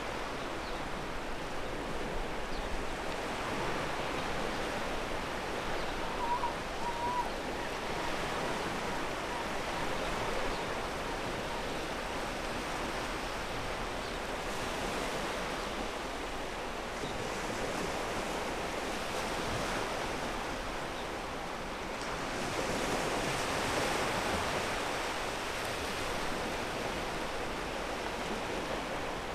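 Ocean surf washing over a pebble beach, a steady rush of water that swells a little about four seconds in and again a little past twenty seconds.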